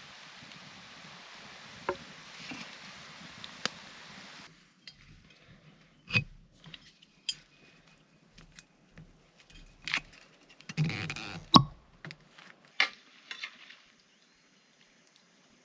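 Scattered knocks, clicks and clinks of objects being handled, with a busier clatter about eleven seconds in. A steady hiss underneath cuts off abruptly about four and a half seconds in.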